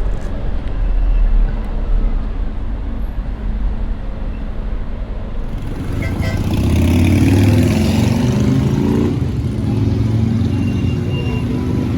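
A low rumble, then from about six seconds a motor vehicle's engine grows louder, loudest a second or two later, and keeps running.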